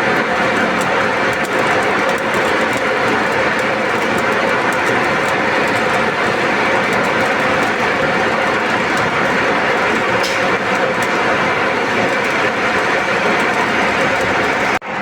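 Steady, loud metalworking noise on a steel belt frame, dense and continuous with fine crackling, breaking off sharply for a moment near the end.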